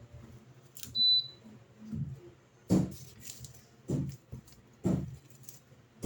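A single short, high electronic beep from the Electrolux LED14 washing machine's control panel about a second in, followed by several dull knocks roughly a second apart.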